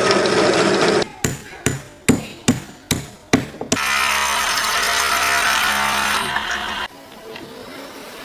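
A run of about seven sharp hammer strikes, roughly two a second, followed by a power tool running steadily for about three seconds and cutting off suddenly.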